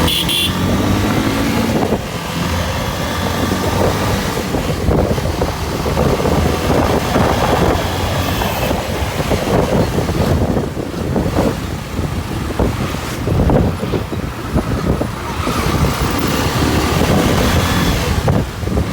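Motorcycle running on the road while riding, its engine hum under heavy, fluttering wind and road noise on the microphone.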